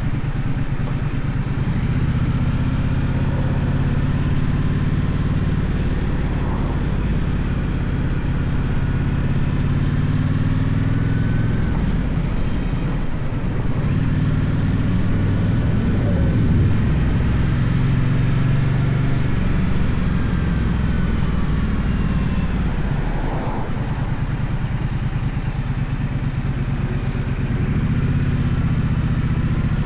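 Gaokin GK1200 motorcycle engine running under way, its pitch rising and falling several times as the rider works the throttle and gears.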